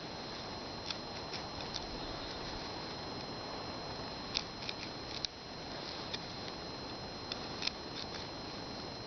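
Wooden hand-drill spindle spun between the palms against a hearth board: a steady friction rub with scattered light clicks.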